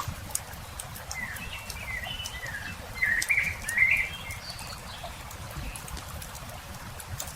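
Campfire crackling with scattered sharp pops over a low, steady rumble. A songbird sings a run of chirping, warbling notes through the first half, loudest about three to four seconds in.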